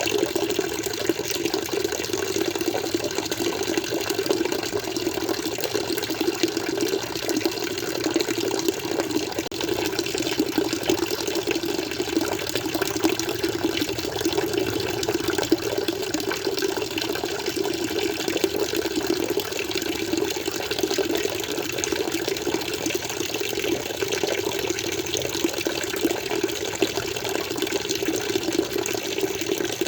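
Water flowing and splashing continuously, a steady even rush with no breaks, like an aquarium filter's outflow.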